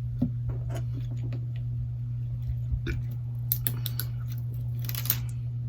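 Small clicks, taps and crinkly rustles of fingers peeling the adhesive strip and its plastic backing off a smartphone battery, scattered and irregular with a louder crinkle about three and a half seconds in and another near five seconds. A steady low hum runs underneath.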